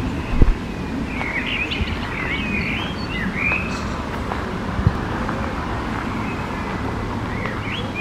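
Songbirds singing short chirping, warbled phrases, most of them in the first half, over a steady low background rumble. A knock about half a second in and another near five seconds.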